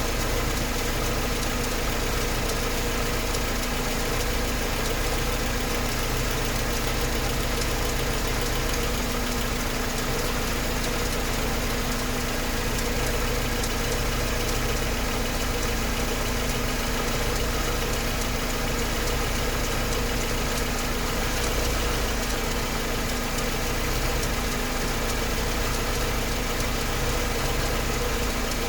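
Mercedes-Benz 190E engine idling steadily, with a rhythmic ticking running through the idle.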